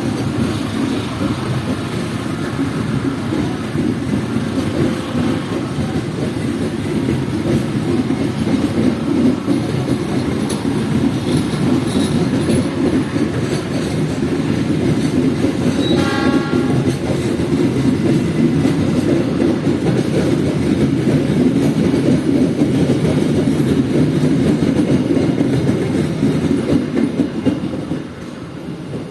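Passenger train running through a station, a steady loud rumble of wheels on rails that eases off near the end. A short horn blast sounds about halfway through.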